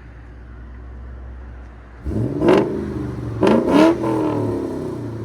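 2006 Ford Mustang GT's 4.6-litre V8 with long-tube headers and a full aftermarket exhaust idling, then blipped twice in quick succession about two and three and a half seconds in, each rev rising sharply and dropping back toward idle.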